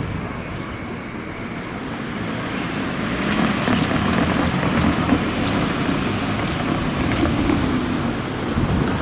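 Doctor Yellow 923-series Shinkansen inspection train moving slowly through the works yard, a steady running noise that grows louder about three seconds in.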